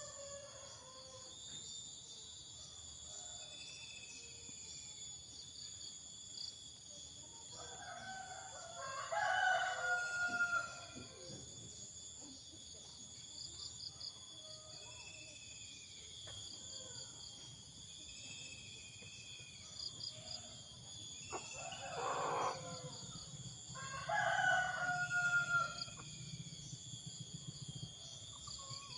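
A rooster crowing, two long crows about two to three seconds each, a third of the way in and again near the end, with a shorter loud call between them. Behind it runs a steady high buzzing chorus and a small bird repeating a short high call every second or two.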